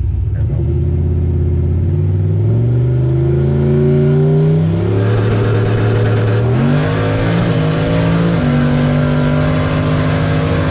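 Turbocharged LS V8 in a Chevy C10 pickup accelerating hard, heard from the cab. The engine pitch climbs and drops back at gear changes, then holds steady near the end.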